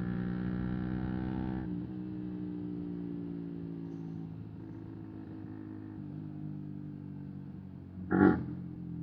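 125cc single-cylinder motorcycle engine with a full Arrow exhaust running at steady revs. Its note eases down a little about two seconds in and shifts again around six seconds. Near the end there is a short, loud blast.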